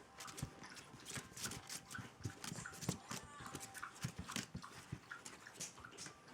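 Four-week-old French Bulldog puppies moving about: many quick, light taps and scuffles of small paws and claws, with a few brief puppy whimpers.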